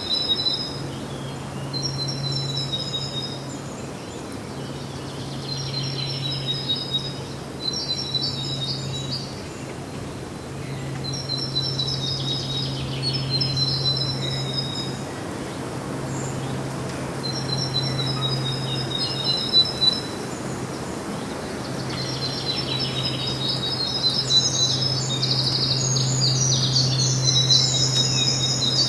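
A songbird singing short, high trilled phrases, repeated every two to three seconds, with a denser burst of song near the end. A low steady hum runs underneath.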